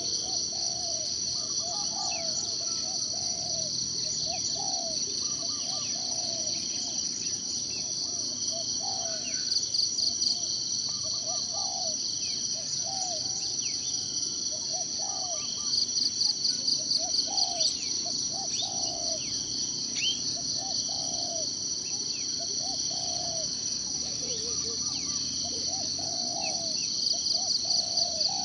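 Forest ambience: a steady high insect trill that swells into louder pulsing three times, under short low calls repeated about once a second and scattered quick high bird chirps.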